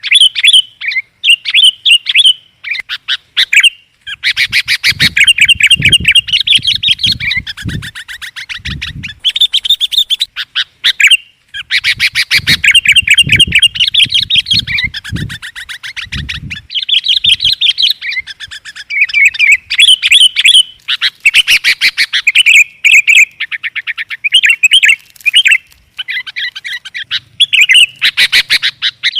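Sooty-headed bulbuls (kutilang) calling loudly in a lure recording: fast, dense chattering mixed with short whistled phrases, near-continuous. Low thuds sound under the calls in two stretches.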